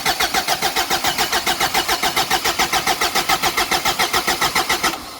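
Ford Courier four-cylinder diesel engine being cranked over on the starter without firing, an even chugging of about eight compression beats a second that stops near the end. It is being turned over to build oil pressure and prime the fuel system before the first start on its new big turbo.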